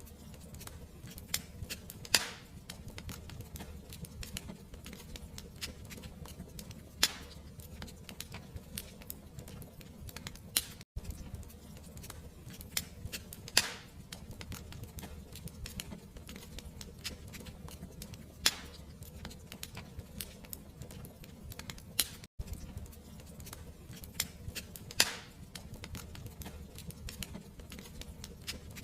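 Fireplace wood fire crackling: dense small clicks over a low steady rumble, with louder sharp pops every few seconds. The sound cuts out for an instant twice.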